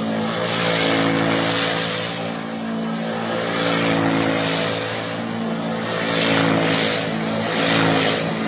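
Car driving along: a steady engine drone under tyre and road noise that swells and fades every second or so.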